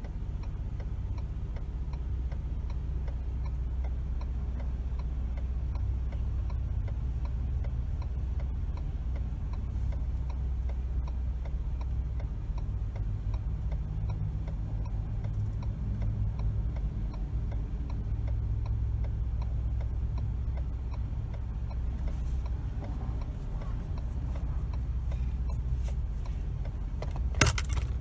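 Steady low rumble of a car driving, heard from inside the cabin, with faint scattered ticks and one sharp click near the end.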